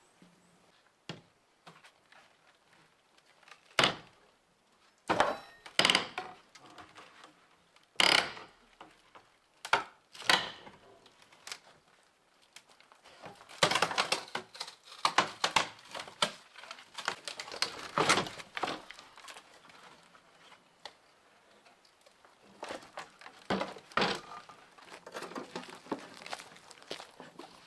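Irregular knocks and thuds of hands-on building work, single sharp ones at first, then busier stretches of clattering and scraping.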